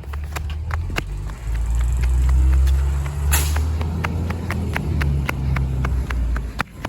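Rear-loader garbage truck's diesel engine running, swelling for a second or two as the packer works the bulk trash, with a short sharp burst of air hiss a little after three seconds in. A steady run of sharp clicks goes on throughout.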